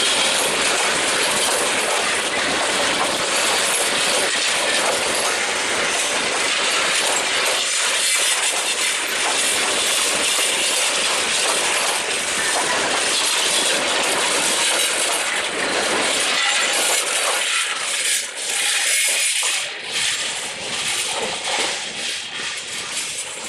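Passenger express train rolling past on the rails, its wheels clattering over the rail joints in a dense steady rush that thins out and fades over the last few seconds.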